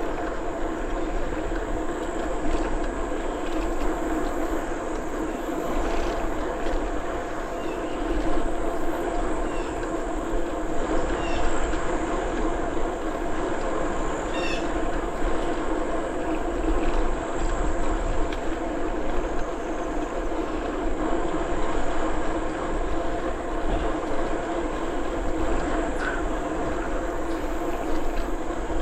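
Bicycle rolling along a paved trail: a steady hum of tyres and drivetrain mixed with wind noise. A few brief high chirps come through around the middle.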